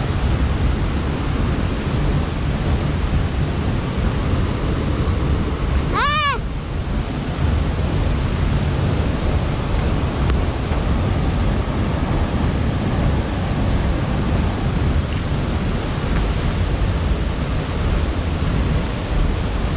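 Steady roar of the Steindalsfossen waterfall. About six seconds in, a voice gives one brief high-pitched call that rises and falls.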